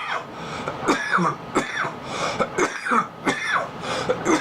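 A man coughing in a fit, a run of hoarse, voiced coughs following one another every half second or so.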